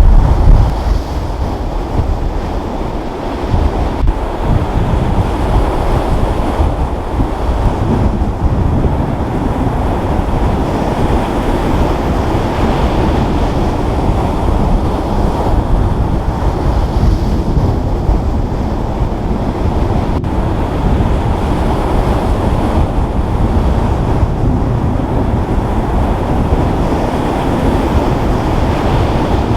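Steady rush of surf with wind buffeting the microphone, a deep rumbling noise that swells and eases slightly.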